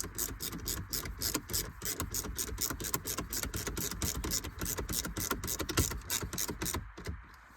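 Hand ratchet clicking steadily, about five or six clicks a second, as it drives T25 Torx screws into the dash trim. The clicking stops about seven seconds in.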